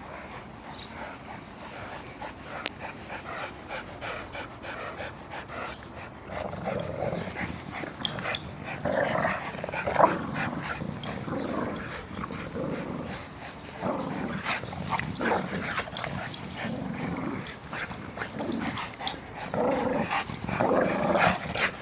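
Dogs growling and scuffling in play, getting louder and more active from about six seconds in.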